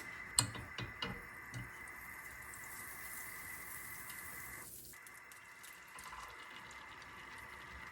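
A few light knocks in a kitchen, then a tap runs for about two seconds and stops abruptly, over a faint steady high hum.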